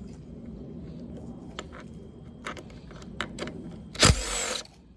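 A 10 mm socket wrench working on the mower's carburettor bolts: scattered light metal clicks, then a louder rasping burst with a knock about four seconds in.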